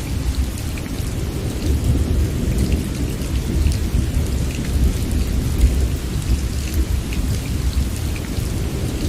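Steady heavy rain ambience with a low rumble underneath and scattered drop ticks, ending abruptly near the end.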